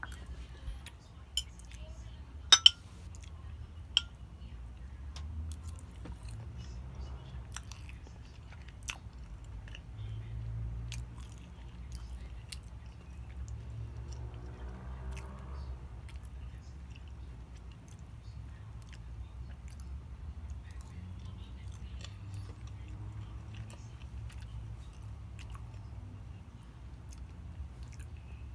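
Close-miked chewing and wet mouth sounds of a person eating, with sharp clicks scattered through, the loudest a few within the first four seconds. About fifteen seconds in there is a short voice-like hum.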